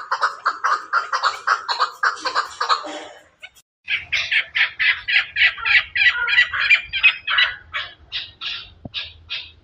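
Chukar partridges calling in rapid, repeated clucking notes. The calling breaks off about three seconds in, and after a short silence a higher-pitched run of rapid calls follows.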